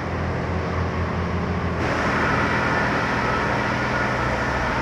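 D&S IQ touch-free automatic car wash running: a steady low machine hum under hissing water spray, which grows louder about two seconds in.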